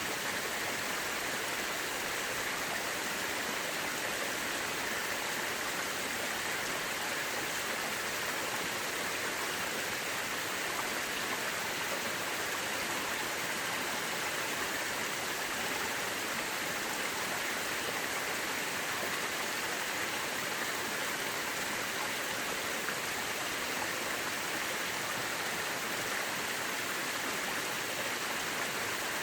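Mountain river rushing steadily over rocks, an even, unbroken water noise with most of its energy in the middle and upper range.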